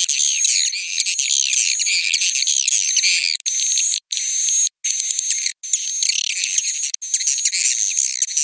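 Recorded chorus of swiftlets twittering and chirping densely over a steady high tone, a swiftlet-house roosting lure call. It is broken by several abrupt, short silences, as when one looped segment ends and the next begins.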